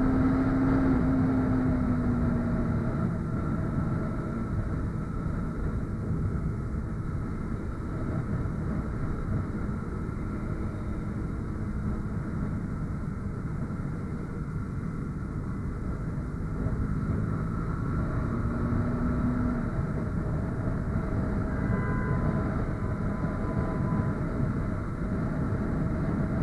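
Motorcycle engine running while riding, under a steady low rumble of wind and road noise. The engine tone eases down slightly in the first couple of seconds and comes up briefly again later on.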